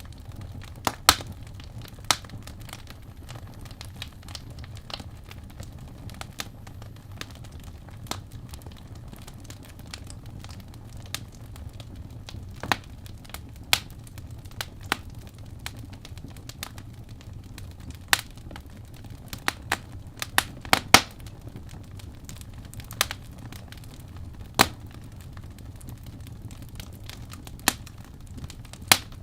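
Birch logs burning in a fireplace: a steady low rumble of the flames with sharp, irregular crackles and pops, a quick cluster of them a little past the middle.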